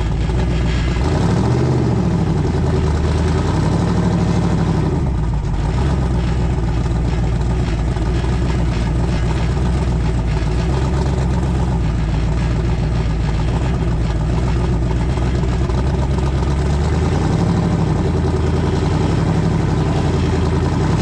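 A vehicle engine running steadily, its pitch rising and falling back a few times as it revs: about two seconds in, around four seconds in, and again near the end.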